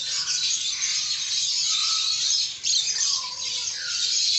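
A cage full of small birds, sparrows and parrots, chattering and chirping continuously, with a few short sliding whistled calls standing out now and then.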